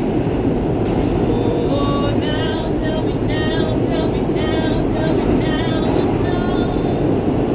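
New York subway train running with a loud, steady rumble, and a person singing over it from about a second and a half in until near the end.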